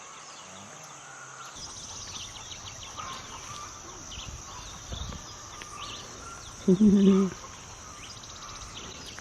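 Birds chirping in short, repeated calls over a steady outdoor background hiss. About seven seconds in, a short, loud sound with a steady pitch lasts about half a second.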